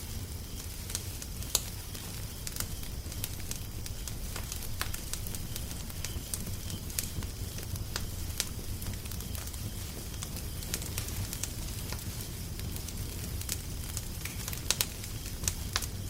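Wood fire crackling: irregular sharp pops and snaps over a steady low rumble, with a few louder pops close together near the end.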